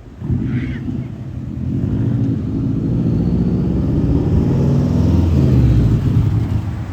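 A car engine running close by, growing louder for about five seconds and then easing off near the end, as a car drives up or pulls past.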